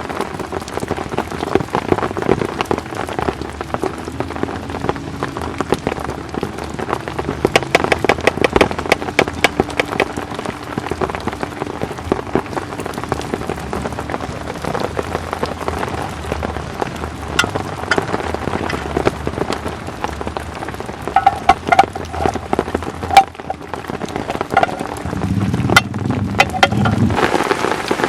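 Heavy rain falling on a tent, a dense patter of drop hits. Near the end a brief low rumble rises under the rain.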